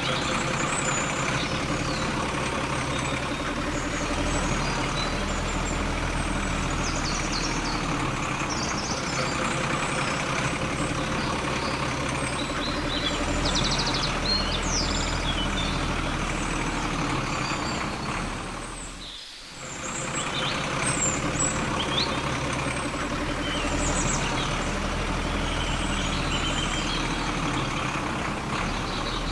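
Steady vehicle-like machine running noise with faint bird chirps over it; the noise fades out briefly and comes back about two-thirds of the way through.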